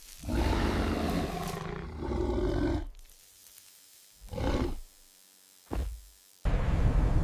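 An animal-like roar lasting about two and a half seconds, then two short bursts and, near the end, a steady rushing noise.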